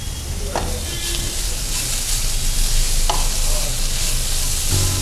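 Grated radish, onion and fresh curry leaves sizzling in hot oil in a nonstick kadai as a spatula stirs them, with two sharp knocks of the spatula against the pan.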